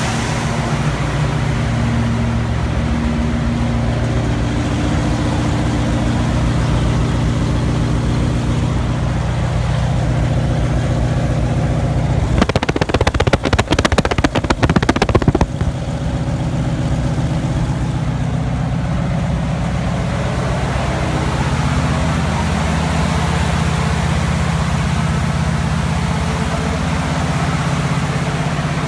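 Chevrolet 350 small-block V8 in a 1955 GMC pickup idling steadily. About halfway through, a few seconds of louder, rough crackling noise break over it.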